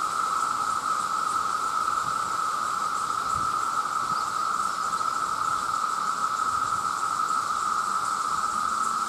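A dense chorus of many male cicadas calling at once: a steady, unbroken drone.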